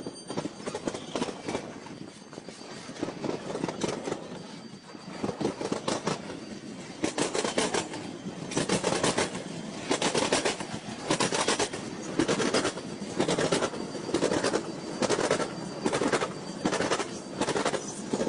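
Triple Crown RoadRailer train, highway trailers on rail bogies, rolling past with its wheels clattering over a track crossing. A rumble builds at first, then from about seven seconds in the wheelsets clack through in repeated pairs, roughly once a second.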